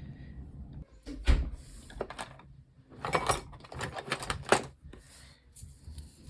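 Small craft tools and objects being handled and set down on a work table: a sharp knock about a second in, then irregular clusters of light clicks and taps.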